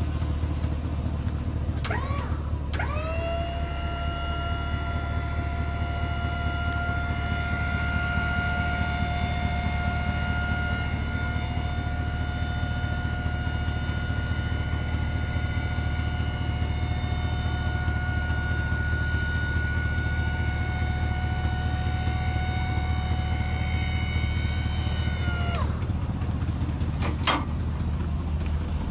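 Electric-hydraulic dump-bed pump on a 2004 Chevrolet Silverado dump truck whining steadily as it works the bed, starting with a click and a short rise in pitch about two seconds in and cutting off a few seconds before the end, followed by a sharp click. Under it the truck's engine idles steadily; it has an exhaust leak at the manifold from a broken front bolt.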